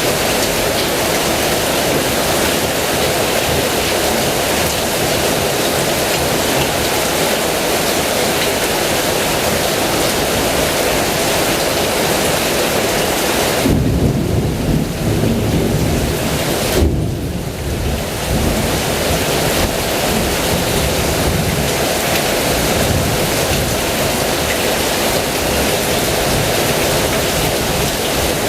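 Heavy rain pouring steadily. About halfway through, a low roll of thunder rumbles for several seconds, with two louder swells.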